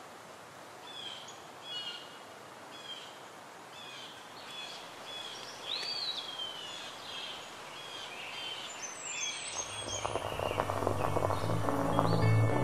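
Small birds chirping in short repeated calls about once a second, with one falling whistle about six seconds in, over a soft outdoor hiss. Music fades in during the last few seconds.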